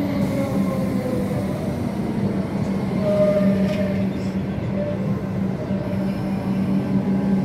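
EDI Comeng electric suburban train running into the platform, its carriages passing close by with a steady rumble of wheels on rail and a low hum. A falling whine from the train in the first second or so, and a brief higher squeal about three seconds in.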